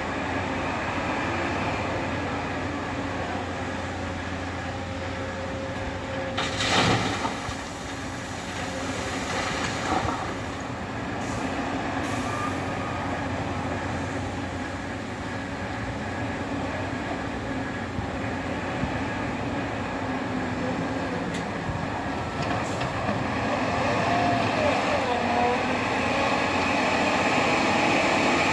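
Scania L164 580's V8 diesel engine running with a steady drone, a short loud burst of noise about seven seconds in and a smaller one about three seconds later, growing louder near the end.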